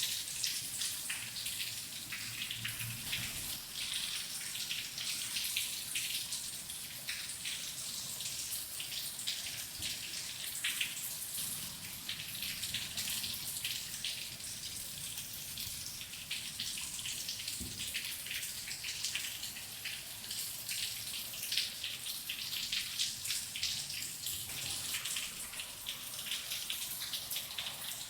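Steady rain falling, an even hiss dense with the close patter of individual drops.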